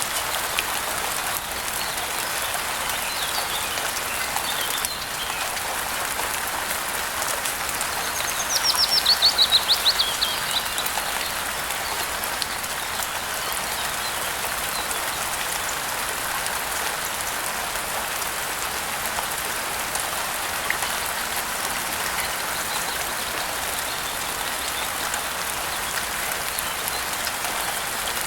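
Steady rain falling, with a bird singing a quick run of notes that falls in pitch about eight seconds in, louder than the rain. A few fainter bird chirps come a few seconds earlier.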